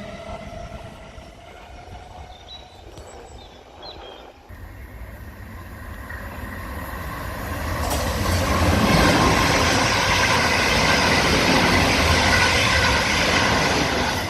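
Electric multiple-unit trains: first a rising motor whine that fades as one train pulls away, then a second train coming up and passing at speed, a loud steady rush of wheels on rail for about the last six seconds.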